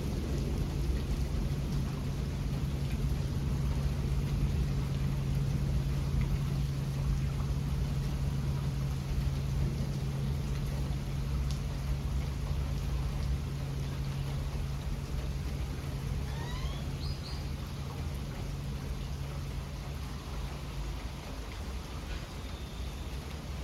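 Steady rain falling, with a low, even drone underneath that fades out a few seconds before the end.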